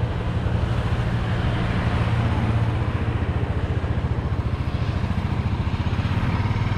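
Motorcycle engine running steadily under way, with a fast, even pulse, over a steady rush of wind and road noise.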